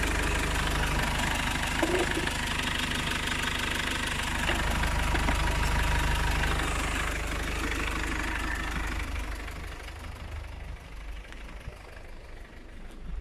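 Mitsubishi Carisma 1.9-litre F9Q turbo-diesel engine idling with a fast, even diesel clatter. The sound fades away over the last few seconds.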